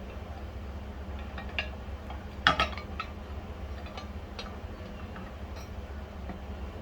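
Small metal parts and tools clinking and clicking as they are handled, with a louder cluster of clicks about two and a half seconds in, over a steady low hum.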